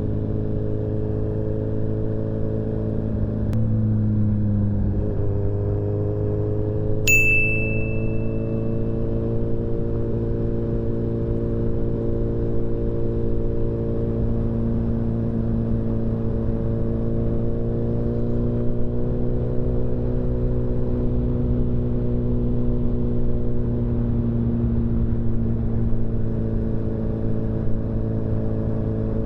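Motorcycle engine running steadily on the road with wind and road noise. The engine note drops around four seconds in, then slowly climbs again. A single short high-pitched ding rings out about seven seconds in.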